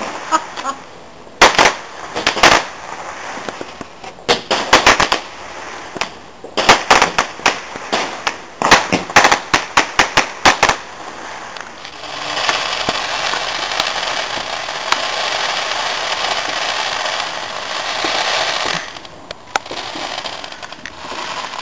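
Consumer fireworks going off: several clusters of sharp bangs in quick succession for about the first ten seconds, then a dense steady hissing crackle for about seven seconds that dies away near the end.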